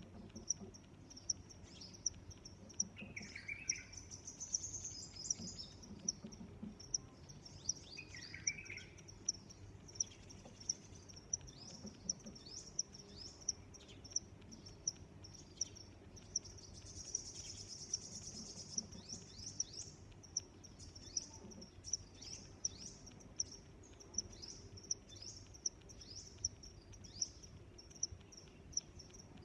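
A cricket chirping steadily, about three chirps every two seconds. A few short bird calls sound over it, twice early on and once as a longer burst about halfway through.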